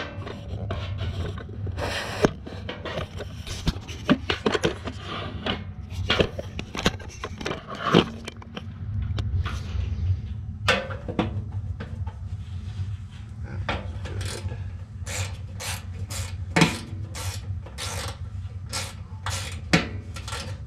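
Hand wrench tightening the bolt on a furnace blower's motor mount bracket: irregular metal clicks and scraping, then an even run of clicks about two a second in the last third as the bolt is turned. The bolt is not stripped, just very loose. A low steady hum runs underneath.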